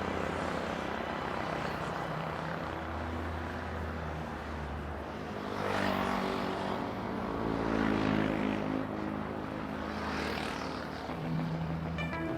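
Road traffic: a steady low motor hum, with vehicles passing close by about six, eight and ten seconds in.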